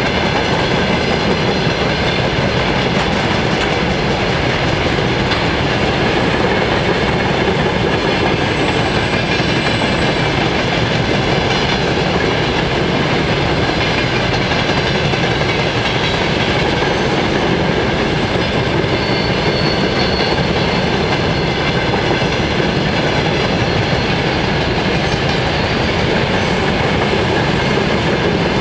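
A long freight train of open wagons on the LHS broad-gauge line running past at the crossing, steady and loud.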